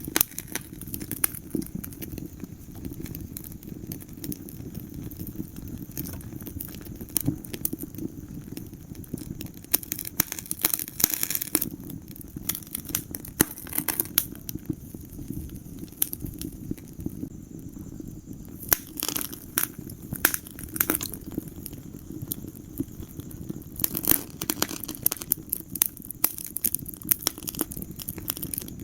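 Wood fire burning in a fireplace: a steady low rumble of flames with frequent sharp crackles and pops, coming in flurries every few seconds.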